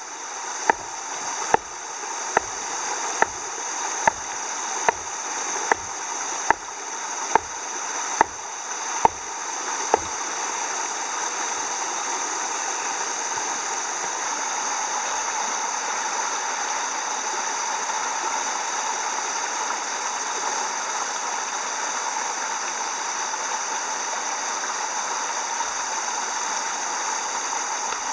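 About a dozen sharp knocks, roughly one every second, stop about ten seconds in. A steady rushing noise runs under them and continues alone afterwards.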